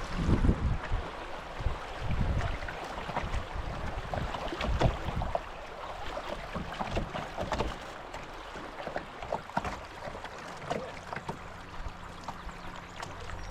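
Canoe paddling on a river: a paddle dipping and pulling through the water, with irregular splashes and low thumps every second or so over a steady wash of moving water.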